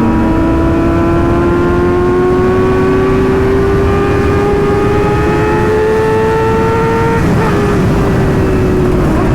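600cc sport bike engine pulling up through the revs in one gear, its pitch climbing slowly, then an upshift about seven seconds in drops the pitch and it runs on steadily. Heavy wind rush on the microphone underneath.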